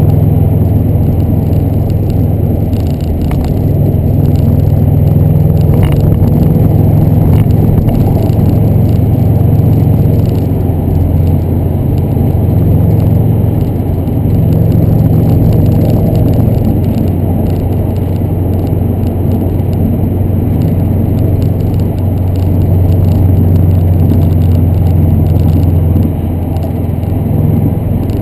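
2011 Subaru WRX's turbocharged flat-four engine and exhaust running steadily with a deep, low drone, a little quieter near the end.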